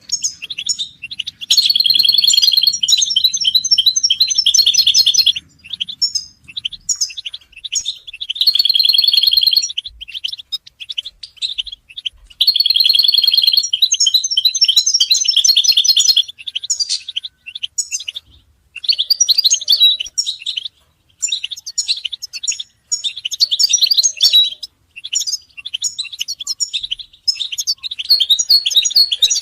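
European goldfinch song and twittering calls: fast, tinkling chatter in long loud runs during the first half, then shorter, broken phrases.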